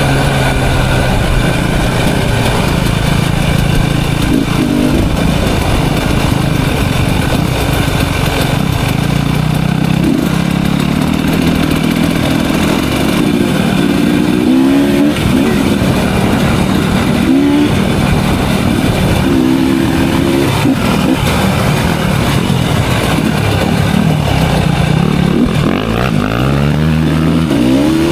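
Off-road motorcycle engine running as it is ridden on a dirt trail, with revs rising and falling and several short rising revs, the last near the end.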